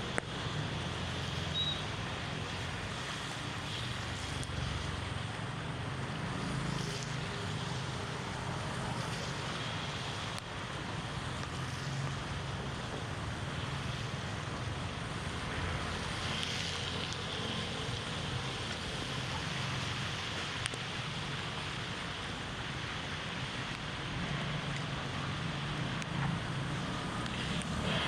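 Steady rushing noise of heavy rain and flowing floodwater, with a few faint splashes.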